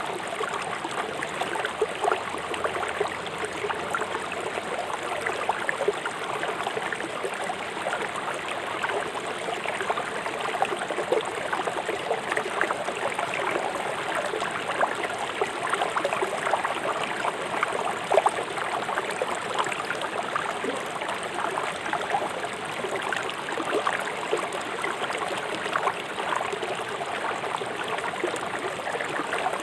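A fast-flowing river rushing over stones: a steady splashing and gurgling, dense with small splashes.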